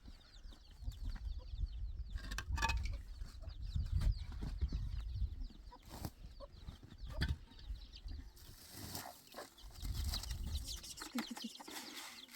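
Chickens clucking, with many short high chirps, a few sharp clicks and a low rumble underneath.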